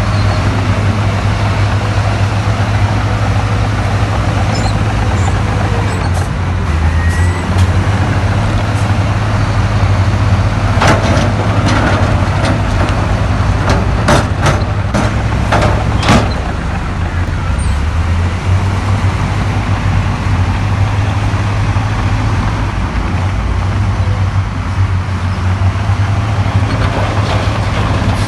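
Heavy diesel engine of earthmoving machinery running steadily, with a series of sharp knocks about eleven to sixteen seconds in.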